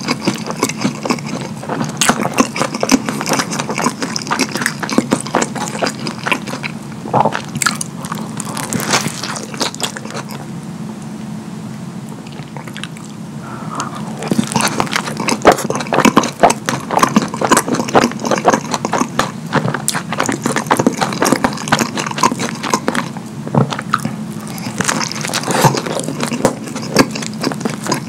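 Eating sounds: a man biting into and chewing a burger drenched in Alfredo cheese sauce, with a dense run of smacking and squelching mouth noises that eases off briefly near the middle.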